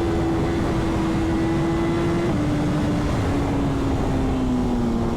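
Sportbike's inline-four engine running hard at high revs, its pitch sinking slowly as the bike eases off, with steady wind rush from riding at speed.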